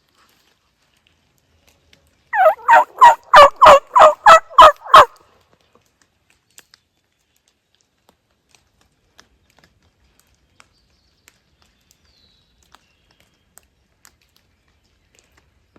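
A hand-operated turkey call yelping: one loud run of about nine evenly spaced notes, about three a second, near the start, used to get a gobbler to answer.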